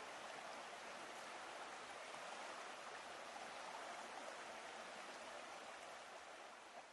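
Steady rushing of flowing water, like a stream, with no distinct splashes, beginning to fade near the end.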